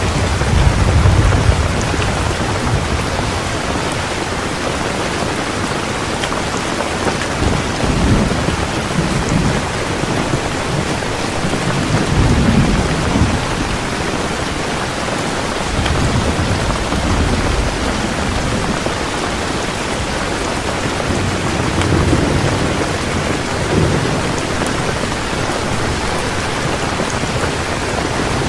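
Heavy rain falling steadily, with low rolls of thunder swelling and fading several times: near the start, and about 8, 12, 17, 22 and 24 seconds in.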